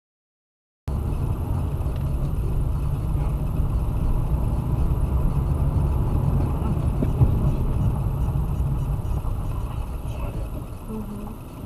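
Steady low rumble of a moving car, road and engine noise, starting abruptly about a second in and easing off near the end.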